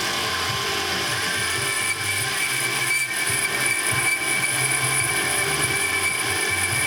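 Workshop power tool running steadily, with a rumbling low drone and a high steady whine that sets in about two seconds in.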